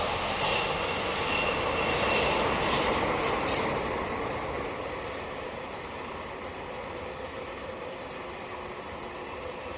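Train hauling KiHa 283 series railcars rolling away, its wheels clacking over rail joints with a thin wheel squeal in the first few seconds. The sound fades to a steady, dwindling rumble as it recedes.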